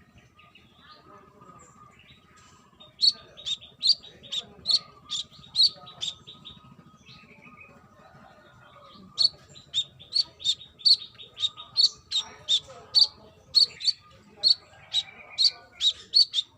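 Brown-throated sunbird (kolibri kelapa) singing a run of sharp, high chirps, about two a second, in two bursts: one starting about three seconds in, and a longer one from about nine seconds on.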